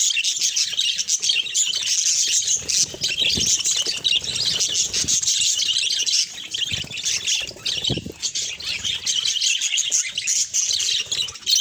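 A flock of budgerigars chattering and chirping together in a dense, unbroken warble of quick high chirps. Soft low knocks come through twice, about a third of the way in and again later.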